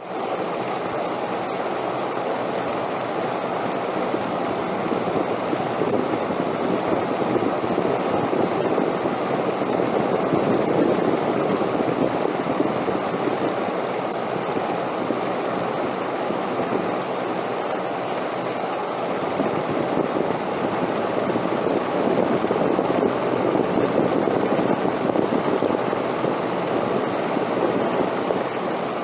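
Steady wind noise, a continuous rushing that swells and eases slowly in gusts. A faint high steady tone sits above it.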